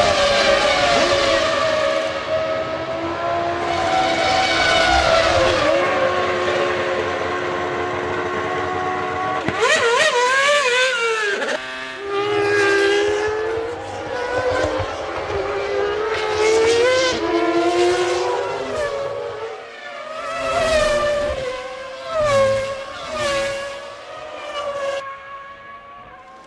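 Formula One race car engines at high revs, their pitch climbing and dropping again and again through gear changes and braking, with a sharp rise and fall about ten seconds in. The sound changes abruptly a few times.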